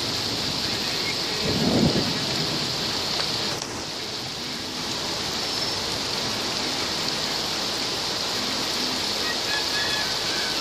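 Heavy rain falling steadily, with a brief low rumble about two seconds in.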